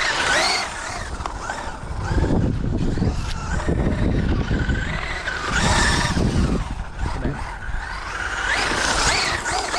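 Traxxas UDR RC trophy truck's brushless electric motor whining up and down as it accelerates and passes, three times, over the rough sound of its tires on the ground.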